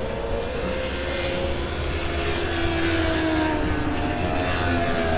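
Superbike racing motorcycle engines at high revs on track, pitch sliding slowly down in the middle and climbing again near the end.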